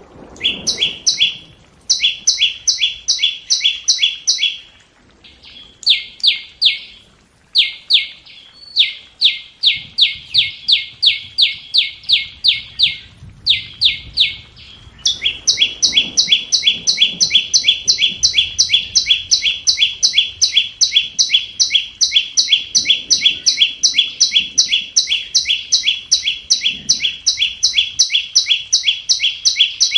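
Scarlet-backed flowerpecker calling: sharp, high chip notes repeated about three times a second. The notes come in short runs with brief gaps in the first half, then in one unbroken run from about halfway.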